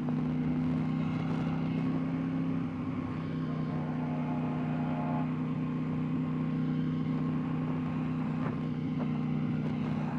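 KTM 890 Duke R's parallel-twin engine running at a steady low speed under the rider.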